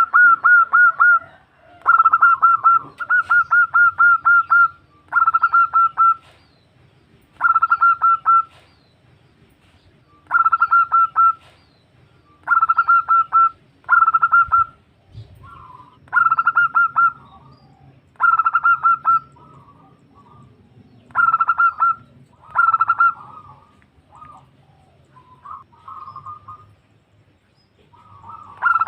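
Female zebra dove (perkutut) calling, a call that draws males. It comes as short bursts of fast repeated notes, about a dozen bursts a couple of seconds apart, each lasting about a second. Softer, broken notes come near the end.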